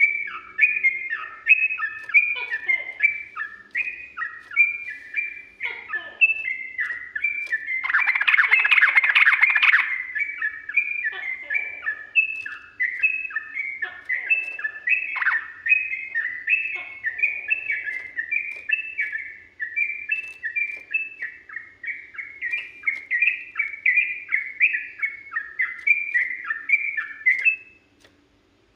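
Yellow-vented bulbul singing a long, fast, unbroken run of chirping notes. About eight seconds in, a harsh buzzy burst lasts some two seconds. The song stops shortly before the end.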